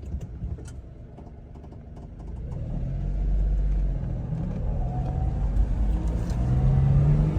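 1999 Suzuki Carry kei truck's small three-cylinder engine pulling away and accelerating: after a few light clicks, the engine note rises in pitch and loudness about two seconds in, eases off briefly midway, then climbs again.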